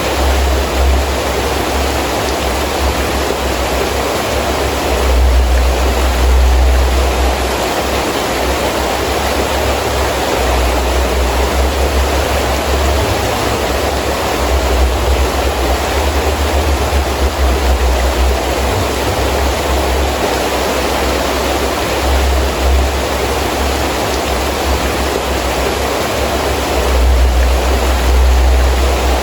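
Heavy rain pouring steadily in strong wind, a dense even hiss, with deep low rumbling swells rising and falling a few times.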